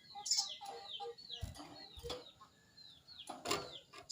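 Sogon bird (crested jay) calling: a quick series of short, high notes that each slide downward, about three to four a second, with lower clucking notes between them and a louder burst near the end.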